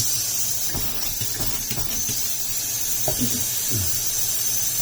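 Water running steadily from a Moen kitchen sink faucet, an even hiss.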